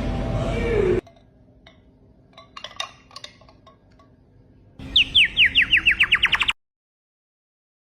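A bird call: faint scattered chirps, then about five seconds in a quick run of roughly a dozen sharp whistled notes. Each note falls in pitch, and the notes come faster and faster.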